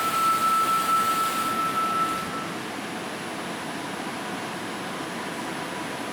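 Underground station ambience: a steady rushing noise, with a thin high tone that stops about two and a half seconds in.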